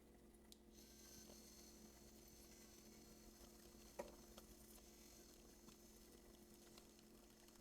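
Near silence: a faint steady hum with a faint high whine, and a few light ticks, the clearest about four seconds in.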